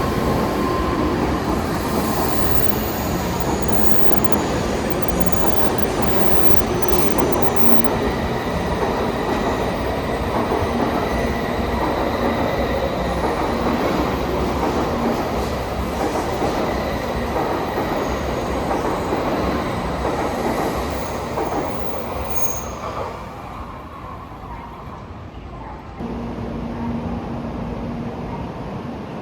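Shinkansen bullet train moving along the station platform: steady running noise with faint high wheel and motor whines, fading away over a couple of seconds about twenty-two seconds in. A quieter steady hum follows, which changes abruptly near the end.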